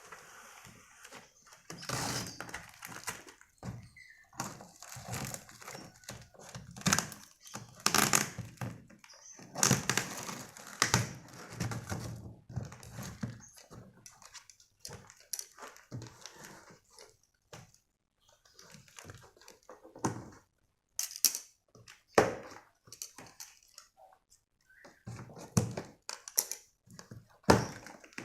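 Irregular knocks, clatters and rustling from a black wire bird cage and its packaging being handled during unboxing, with a few quiet pauses.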